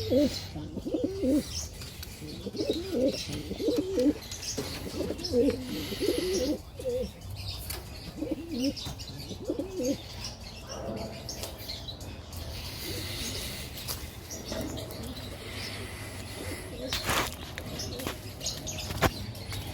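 Pigeons cooing repeatedly in low, rolling calls through the first half, then a few brief flutters of wings later on.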